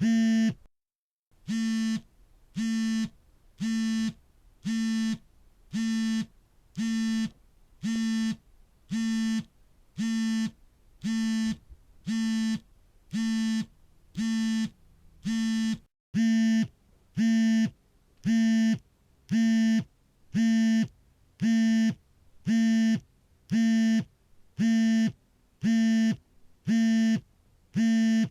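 Smartphone vibrating for an incoming call: a steady buzz in pulses of about half a second, repeating roughly once a second. The pattern drops out into dead silence twice, briefly, about a second in and about halfway through.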